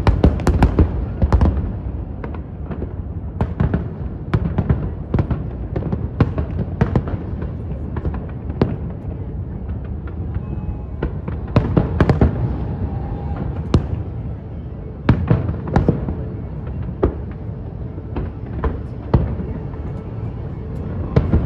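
Fireworks display: a dense, unbroken run of sharp bangs and crackles over a continuous low rumble, with several bigger bursts standing out partway through.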